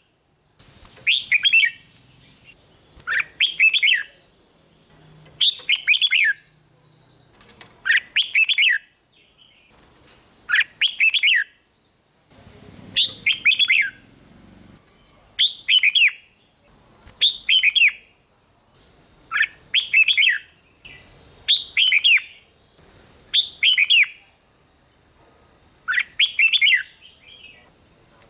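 Red-whiskered bulbul singing short, falling chattering phrases, about a dozen of them spaced two or so seconds apart, with a thin steady high-pitched tone in the background.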